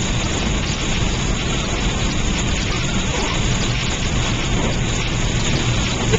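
Steady rain and wet snow hitting a moving car, heard inside the cabin over an even road and engine rumble.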